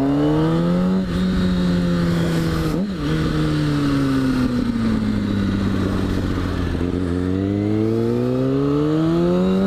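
600cc sportbike engine under way: the revs rise for about a second, ease down slowly over several seconds, then climb steadily again near the end as the bike accelerates.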